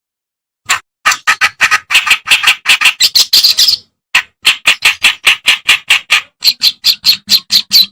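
Kerak basi (reed warbler) singing a loud, rapid string of short repeated notes, about five a second. The song begins under a second in and breaks off briefly about halfway through.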